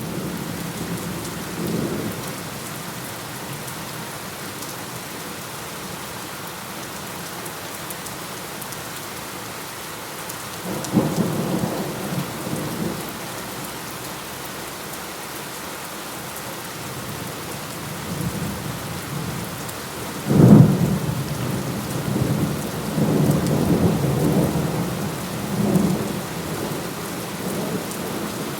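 Steady heavy rain with rolling thunder: low rumbles come and go, and a sharp, loud thunderclap about two-thirds of the way through breaks into several seconds of rolling rumble.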